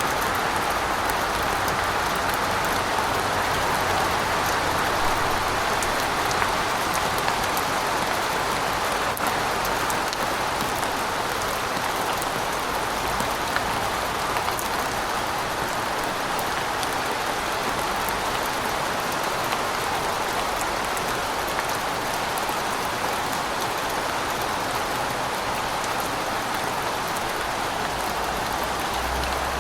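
Steady rain falling: a continuous hiss of rain, with many small drop ticks scattered through it.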